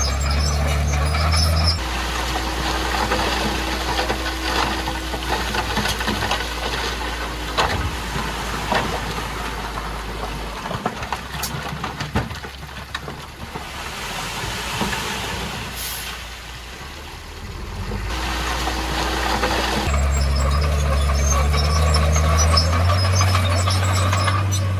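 Heavy diesel construction machinery running steadily, with its tone changing abruptly about two seconds in and again near the end.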